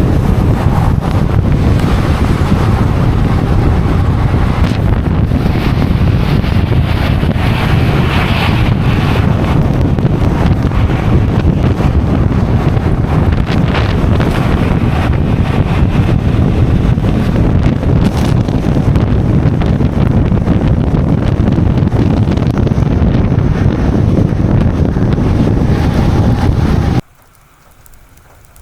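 Strong wind buffeting the microphone: a loud, steady, rumbling rush that cuts off abruptly near the end, leaving a faint hiss.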